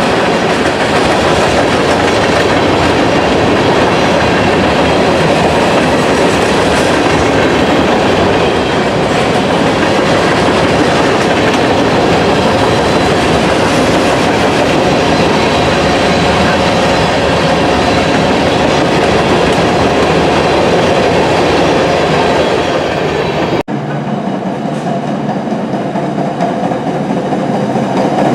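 A freight train's cars rolling past on the rails, loud and steady. The sound breaks off for an instant about three-quarters of the way through, then carries on a little quieter.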